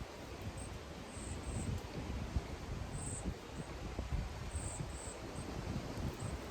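Short, high-pitched insect chirps coming at irregular intervals, over a low rumble of wind on the microphone.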